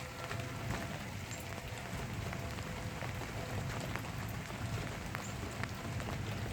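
Steady rain falling, with drops pattering close by. A faint, steady outdoor warning siren tone sounds underneath and fades in the first few seconds.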